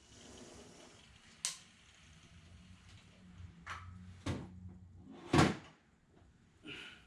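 Knocks and clatter of an object being put away: a sharp click about a second and a half in, a couple of knocks, then a louder thud a little after five seconds, like a cupboard or drawer being handled.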